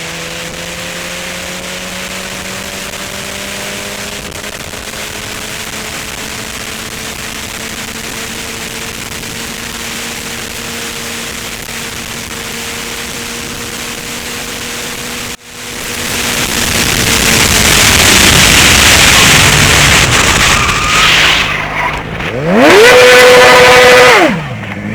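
Suzuki GSX-R600 inline-four engine running steadily at speed under wind noise, its pitch creeping slowly up. After a sudden break about fifteen seconds in comes a long, loud rushing noise. Near the end a very loud pitched sound rises, holds for about a second and falls away.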